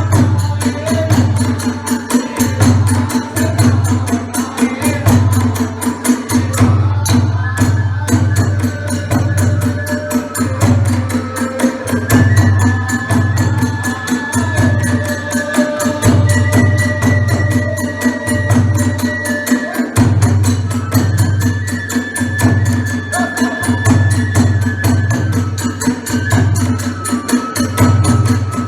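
Kagura hayashi music: a taiko drum beating a steady rhythm under small hand cymbals and a bamboo flute playing long held notes.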